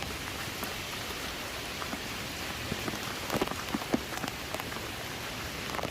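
Heavy typhoon rain pouring steadily, with scattered sharper splats of drops striking nearby surfaces.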